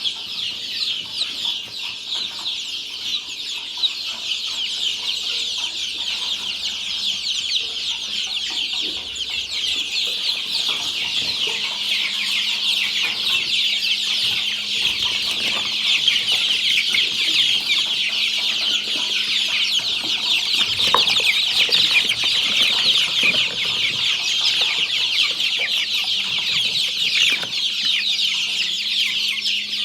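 A brood of young native chicken chicks peeping continuously, many high chirps overlapping, with a faint low steady hum underneath.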